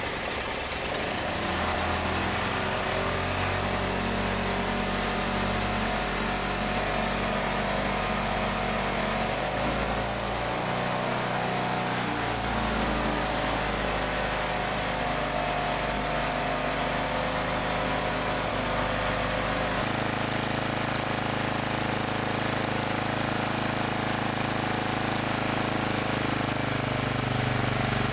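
Yanmar RM82U small gasoline engine running steadily after its carburetor has been cleaned, with an abrupt shift in its tone about twenty seconds in.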